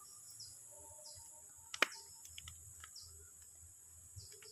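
Quiet rural outdoor ambience: a small bird giving short, falling chirps again and again over a steady high insect drone, with one sharp click a little under two seconds in.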